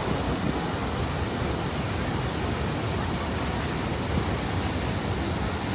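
Floodwater of the Big Sioux River pouring over the falls, a steady, even rush of water with no breaks.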